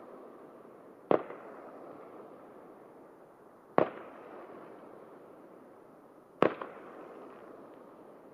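Distant aerial firework shells bursting: three sharp bangs about two and a half seconds apart, each followed by a long echo that dies away.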